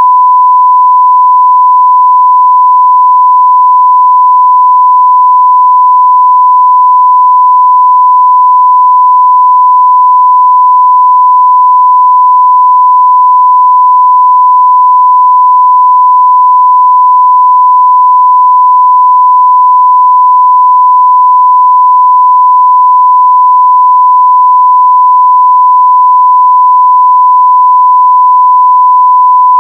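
Continuous 1 kHz sine-wave test tone at 0 dB (full scale): one pure, steady, loud pitch that never changes.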